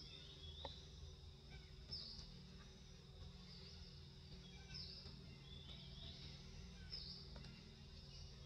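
Faint outdoor ambience: short high chirps repeating about every two seconds over a steady low hum and a thin high hiss.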